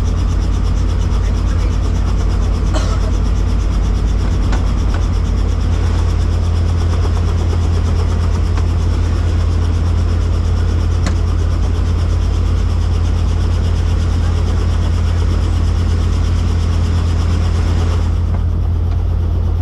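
Helicopter engine and rotor running: a loud, steady drone with its weight in the deep bass.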